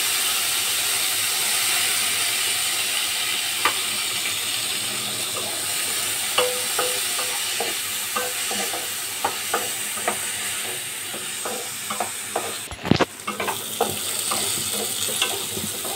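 Green peas and sweet corn sizzling steadily as they fry in ghee in a kadhai. A wooden spatula stirs them, knocking and scraping against the pan now and then, more often in the second half. The sound briefly drops out about thirteen seconds in.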